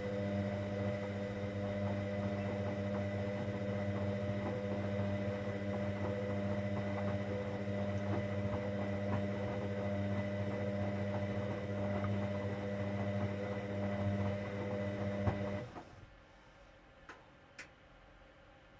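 Hoover Dynamic Next washing machine's pump humming steadily with a faint watery crackle, then cutting off suddenly near the end, followed by two short clicks.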